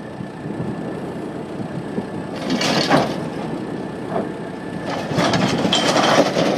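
Motor vehicle engine noise that swells about two and a half seconds in and rises again about five seconds in.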